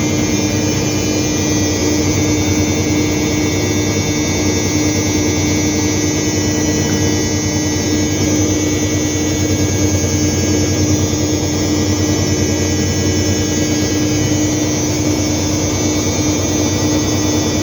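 Bosch washing machine on its spin cycle, the drum spinning fast at a steady speed: a loud, even hum with a high whine over a low rumble.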